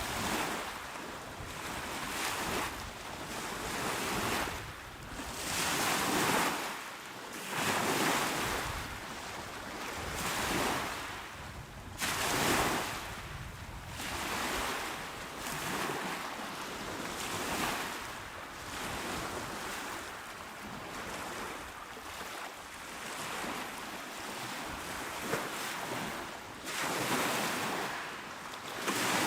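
Small ocean waves washing onto a shore, a hiss of surf that swells and eases every couple of seconds with no lull.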